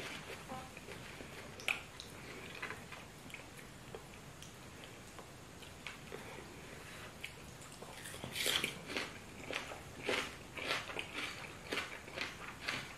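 Close chewing and lip-smacking of people eating banku and fried fish by hand. The smacks are sparse at first, with one sharp click near two seconds, then come quicker and louder from about eight seconds in.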